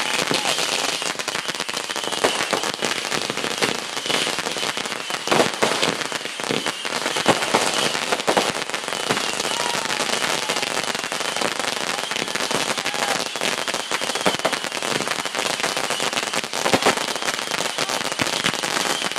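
Fireworks crackling, a dense, unbroken stream of rapid pops with louder bangs here and there.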